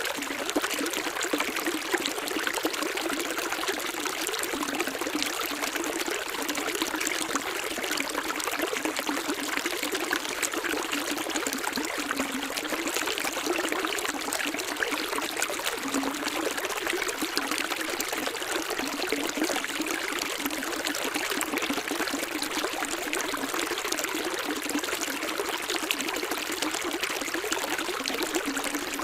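Stream water running steadily, an unbroken babble and trickle of flowing water.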